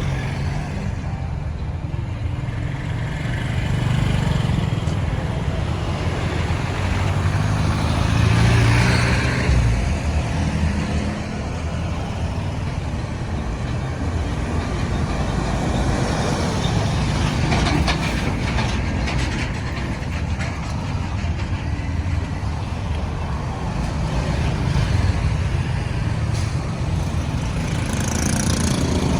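Busy road traffic: a steady mix of vehicle engines and road noise, swelling a few times as vehicles pass close by.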